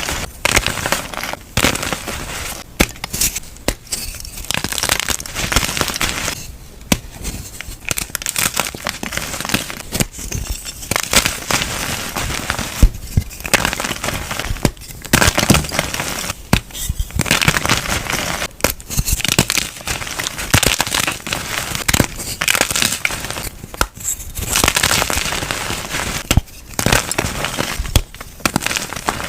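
Soft, crunchy dyed chalk being crushed, crumbling and crackling in repeated bursts of dense crunches with short pauses between them.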